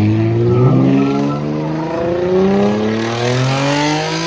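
A modified car's engine pulls hard under acceleration, its pitch rising steadily through one gear. It breaks off near the end with a brief hiss, as at a gear change.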